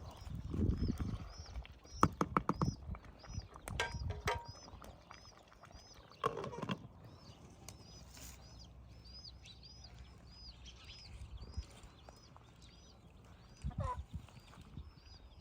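A small bird repeats a short, high arched chirp several times a second, over bursts of knocking and clattering, in clusters near the start, around six seconds in and near the end.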